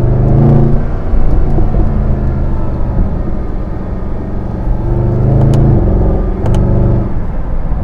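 Mercedes-AMG SLS 63's 6.2-litre V8 pulling and lifting off, its revs rising and dropping several times, with a couple of sharp exhaust pops in the second half.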